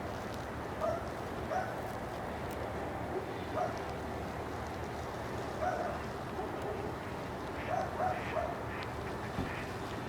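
Short animal calls, some single and some in quick pairs, repeating every second or two over a steady background hiss.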